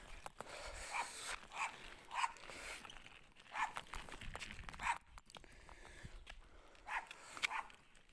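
A dog barking repeatedly, about seven short barks at uneven intervals, over faint rattling and clicking.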